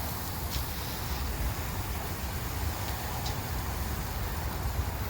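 Steady hiss of beef short ribs (tablitas) sizzling on a hot grill, under a low rumble of wind on the microphone, with two faint ticks.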